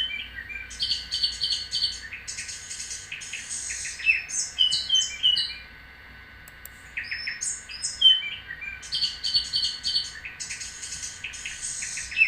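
Recorded birdsong: clusters of high chirps and short trills, the same run of calls repeating about every seven seconds.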